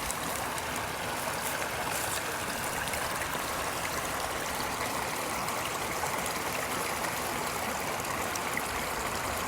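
Brook water running steadily, a continuous stream rushing and trickling.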